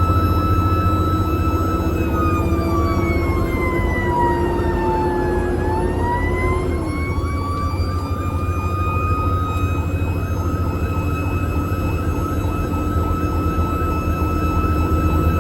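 Fire engine running at the scene: a steady engine rumble under a high whine that slides down in pitch about two seconds in, then climbs back to its first pitch over the next few seconds and holds steady.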